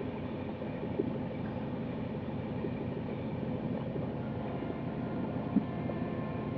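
Passenger train running along the track: a steady rumble of wheels on rails, with a small knock about a second in and a sharper, louder knock near the end.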